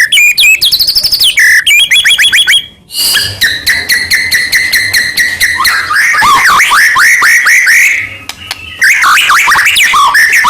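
White-rumped shama singing a loud, varied song: fast runs of repeated notes, held clear whistles and rapid downward slurs, with two brief breaks.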